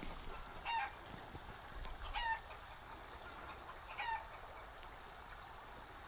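A bird giving three short, harsh calls about a second and a half apart, each dropping in pitch at the end, over a faint steady background hiss.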